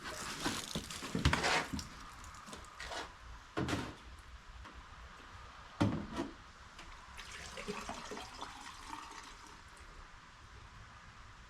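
Coolant poured through a funnel into the mini loader's cooling system, splashing and gurgling in uneven spells, with a few sharp knocks in the first half.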